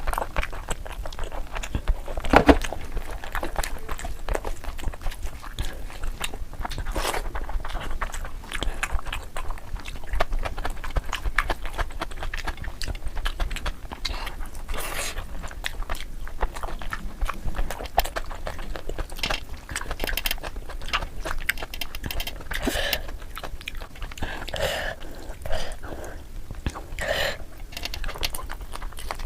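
Close-miked chewing and biting of tandoori chicken: a steady run of small crunches and mouth clicks, with a louder bite about two and a half seconds in.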